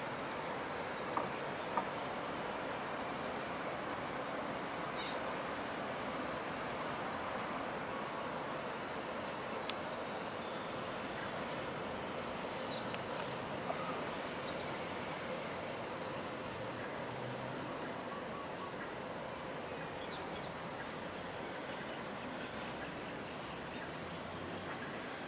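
Steady outdoor background hiss with a faint, steady insect-like drone. A few faint short clicks stand out, two of them near the start.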